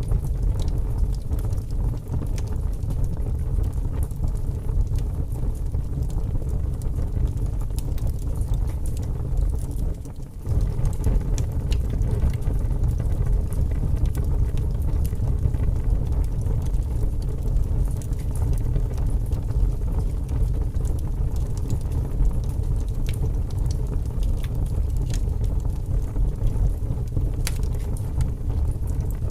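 Wood fire burning in a fireplace: a steady low rumble of the flames with scattered crackles and pops of burning wood. The sound dips briefly about ten seconds in.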